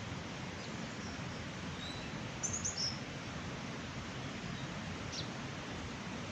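A few short, high bird chirps, a quick cluster about two and a half seconds in and one more near the end, over a steady rushing background noise.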